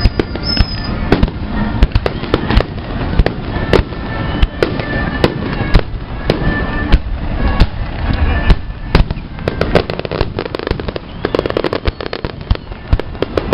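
Fireworks salute: a rapid, irregular string of sharp bangs over a continuous low rumble.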